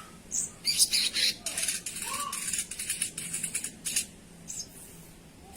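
Spiderhunter (sogok ontong) giving a rapid run of harsh, scratchy chattering calls for about four seconds, followed by a couple of short single calls.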